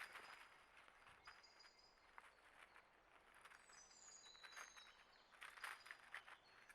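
Faint high chirps from small songbirds, with a few short falling whistles around the middle. Scattered scratchy rustles come and go, thicker near the end.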